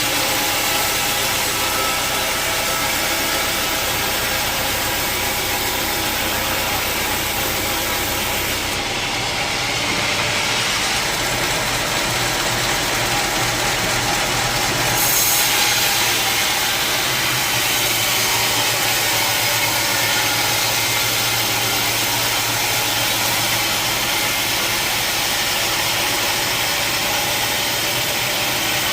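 Sawmill saw machinery running steadily, a dense mechanical noise with several fixed tones. About nine seconds in the low hum drops away, and the sound swells briefly near the middle.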